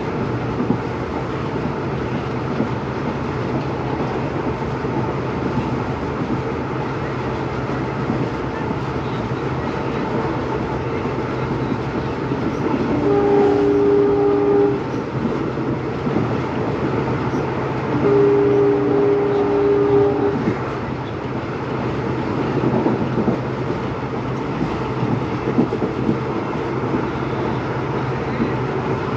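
WDP4B diesel locomotive's EMD 16-cylinder two-stroke engine humming steadily. Its horn sounds twice near the middle, each a two-note blast lasting about two seconds.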